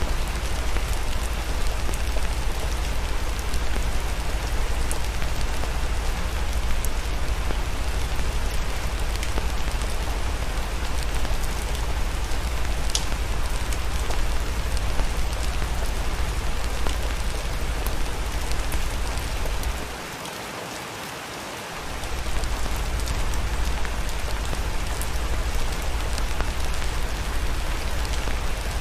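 Steady, even rain with a low rumble underneath. The rumble drops out for about two seconds about two-thirds of the way through, and a few sharp ticks stand out over the rain.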